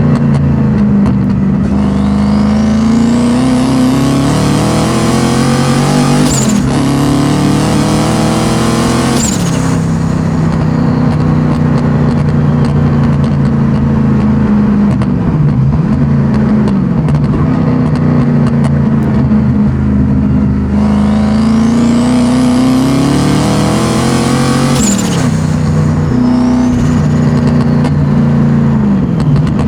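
Turbocharged M62 V8 in a BMW E30 driven hard, its note rising and falling with throttle and dropping suddenly several times at lift-offs or gear changes. A high whistle climbs steeply in pitch twice, about two seconds in and again about twenty-one seconds in, as the turbo spools.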